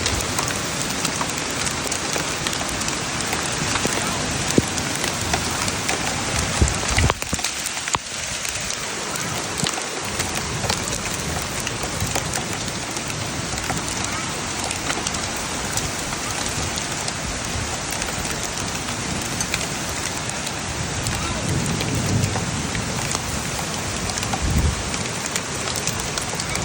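A hailstorm with heavy rain, a steady dense hiss of countless small impacts with sharper ticks of hailstones scattered through it.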